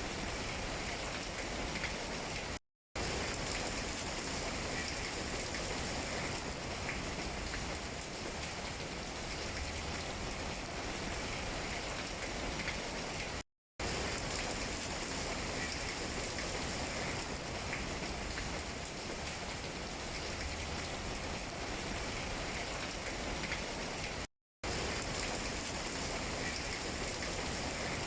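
Steady rain falling on tree leaves, an even wash of drops with no let-up, cut three times by a split-second dropout to silence, about eleven seconds apart.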